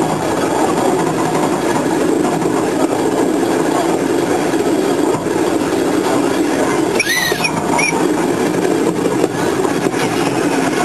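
Train running along the line, heard from on board: a steady rumble of wheels and carriage on the rails. A brief high squeal cuts in about seven seconds in.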